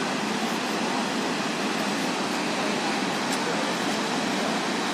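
Steady rushing roar of a large waterfall, a dense even noise with no breaks.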